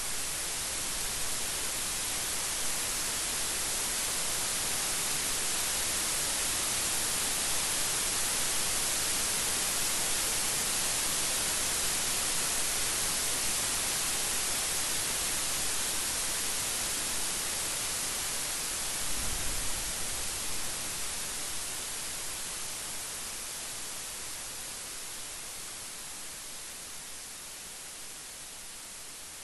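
Steady heavy rain hissing, swelling and then slowly easing toward the end, with a brief low rumble about two-thirds of the way through.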